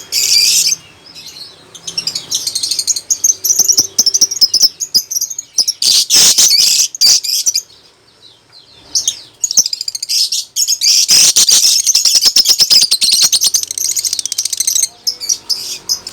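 A lovebird in full song: long runs of rapid, high-pitched chattering chirps, broken by a pause of about a second and a half midway before the chatter resumes.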